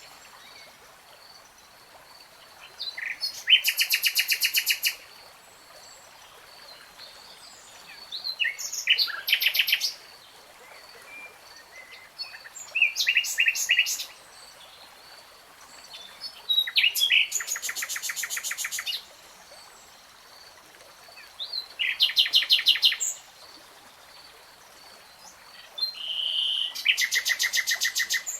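A songbird singing six short phrases of rapid, repeated trilled notes, each lasting one to two seconds, with pauses of a few seconds between them. A faint, steady high-pitched tone continues underneath.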